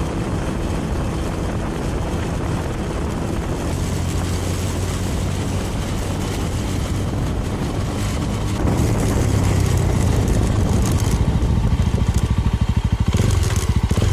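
Small Suzuki 250 motorcycle's engine running while riding, with wind and road noise. It gets louder about two-thirds of the way through, and the engine takes on a fast, even pulsing near the end.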